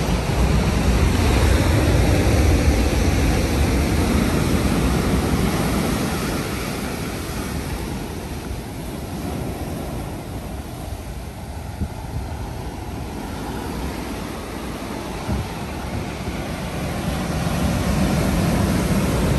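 Ocean waves breaking and washing in on the shore, a deep rushing surge that is loudest in the first few seconds, ebbs through the middle and builds again with the next wave near the end.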